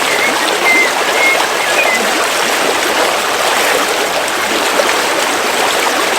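River water flowing steadily through a forest. A few short, high bird chirps come in the first two seconds.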